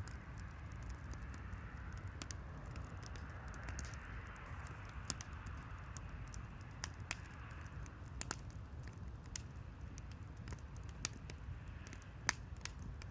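Wood campfire crackling, with sharp irregular pops every second or so over a low steady rumble.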